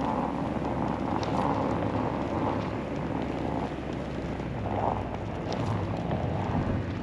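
Blizzard wind buffeting the microphone in gusts, over a low steady hum.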